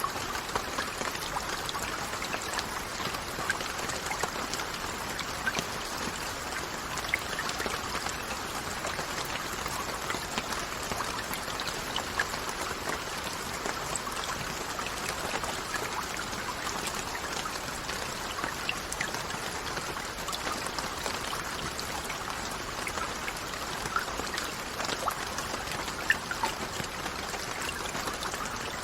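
Steady rain, an even hiss with many scattered individual drops ticking sharply over it.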